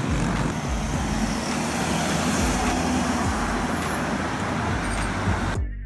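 Road traffic noise: a steady rush of vehicle engines and tyres on the road, which cuts off abruptly near the end.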